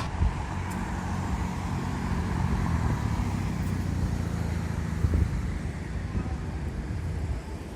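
Road traffic passing: a steady rumble of engines and tyre noise.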